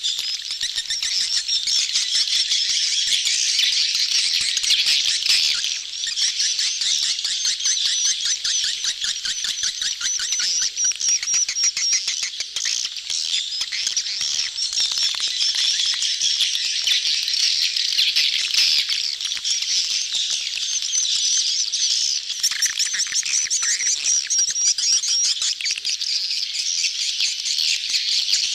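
A dense crowd of edible-nest swiftlets chattering in a colony: a continuous high, rapid twittering and clicking with no pause, the breeding-season crowd calls used as a lure sound for swiftlet houses.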